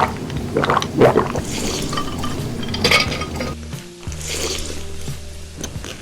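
Background music with the clinking and clatter of dishes and cutlery, in several short bursts of handling.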